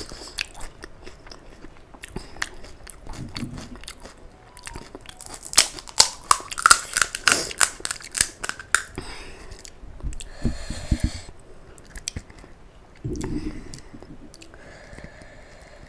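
Close-miked chewing and crunching of crisp panipuri shells, with a dense run of loud crunches about six to eight seconds in, then softer, duller sounds.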